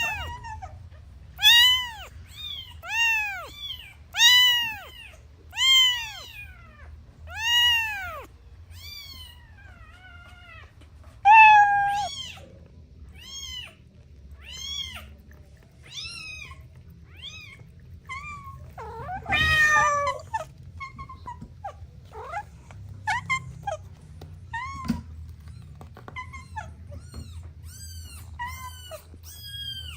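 Kittens meowing again and again: short, high mews that rise and fall in pitch. The loudest come every second or so in the first several seconds, then fainter, quicker mews follow, with one longer, rougher call about two-thirds of the way through. A low, steady hum runs underneath.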